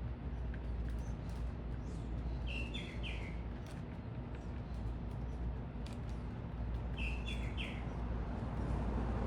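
A small bird chirping twice, each time a quick run of about three high chirps, a few seconds apart, over a steady low rumble and hum.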